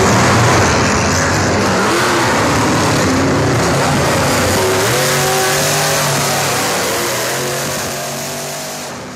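Monster truck engine running and revving, its pitch stepping up and down, then fading out near the end.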